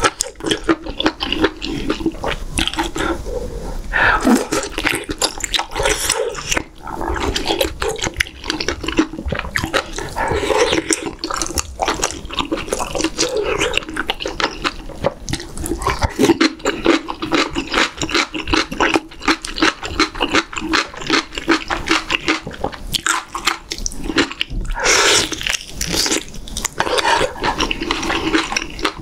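Close-miked eating sounds: wet chewing, lip-smacking and slurping as beef short-rib meat from doenjang stew and seasoned cucumber are eaten. The small clicks and squelches come in a steady, unbroken stream, growing louder and brighter about 25 seconds in.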